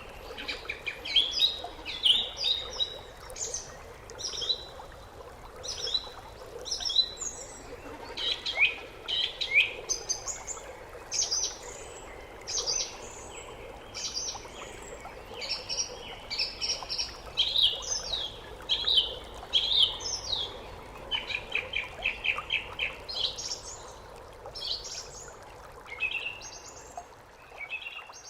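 Wild songbirds singing and calling in quick, repeated short phrases of high chirps and trills, over a steady background hiss.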